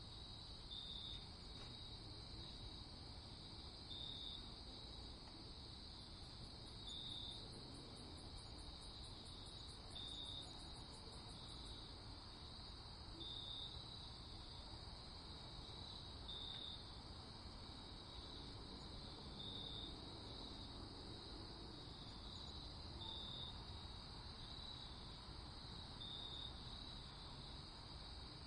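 Crickets trilling steadily in a quiet night ambience, with a louder chirp standing out about every three seconds, over a faint low background rumble.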